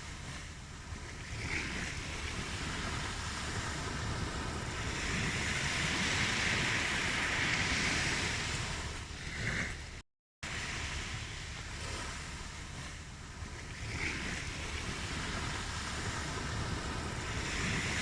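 Ocean surf: waves wash in and swell, then recede, in slow surges, with one rise in the middle of each half. The sound cuts out completely for a moment about ten seconds in, then the same surge pattern starts over, as a looped recording would.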